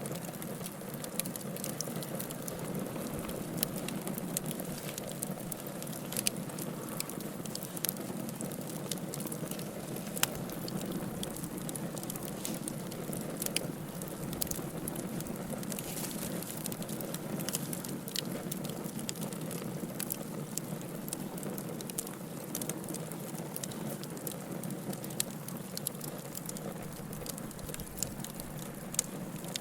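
Fire burning in a fireplace: a steady low rush with many sharp crackles and pops.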